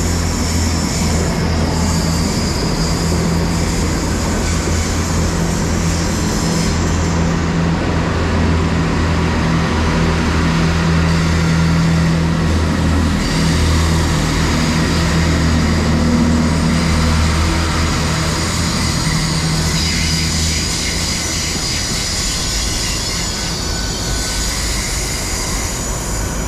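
A pair of Great Western Railway Class 800 IET units running into the platform. Their engines give a steady low hum, with rail and wheel noise above it.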